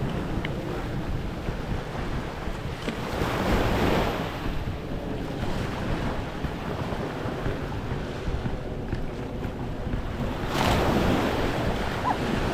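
Small waves washing onto a sandy beach, with two louder washes about three seconds in and near the end, over wind buffeting the microphone.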